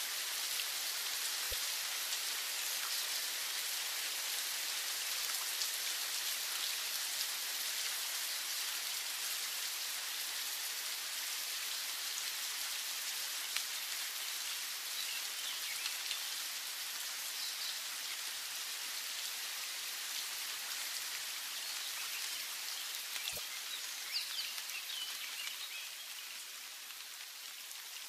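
Steady rain falling as an even patter, with faint bird chirps now and then, clearest in the last few seconds.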